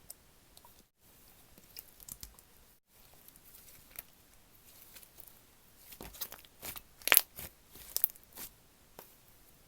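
Slime being handled by hand, giving scattered sticky clicks and crackles that grow busier and louder from about six seconds in.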